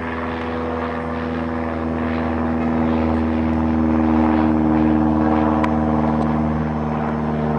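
An engine drones steadily at one constant pitch, growing a little louder partway through.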